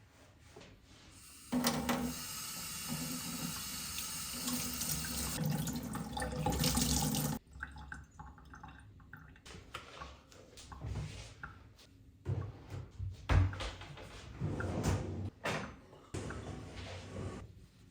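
Kitchen tap running into the sink for about six seconds, switched on and off sharply, then scattered clatter and rubbing as things are handled and scrubbed at the sink.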